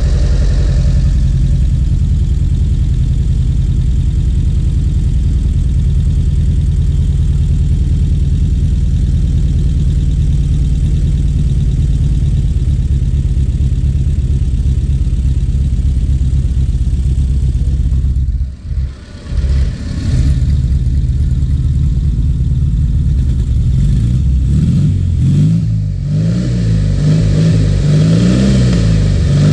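Alcohol-fuelled, twin-carburettor VW Fusca air-cooled flat-four engine running at a steady idle while its carburetion is being adjusted. The sound dips briefly about two-thirds of the way in, and near the end the engine revs up and down several times.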